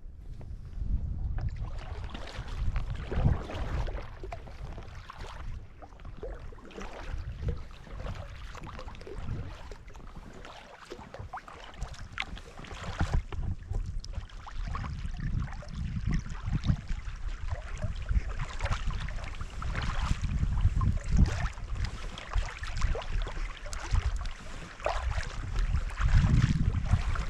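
Water splashing and lapping around a kayak, with wind rumbling on the camera microphone.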